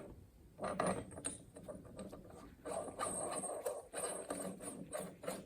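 Irregular small metal clicks and scraping as a concave washer and nut are fitted by hand onto the 5th-gear end of an NV4500 transmission shaft.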